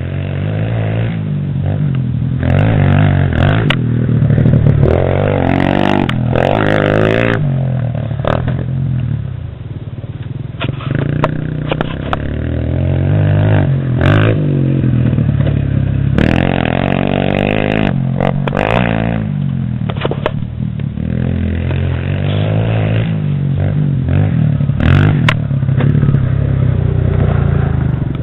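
Stock pit bike engine revving up and down again and again as it is ridden, with scattered sharp clicks and knocks.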